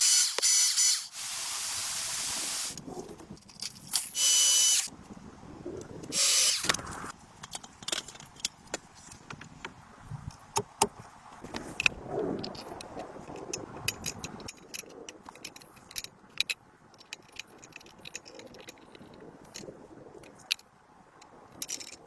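Workshop sounds: several short, loud bursts of hissing noise in the first seven seconds, then scattered clicks and knocks of tools being handled.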